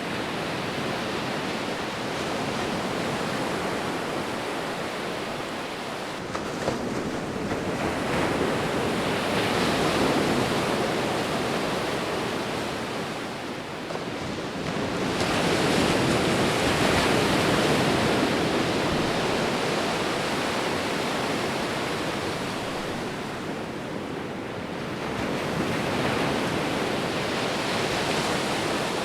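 Sea waves breaking and washing on a beach, a steady rushing surf that swells and fades, three larger waves about ten seconds apart.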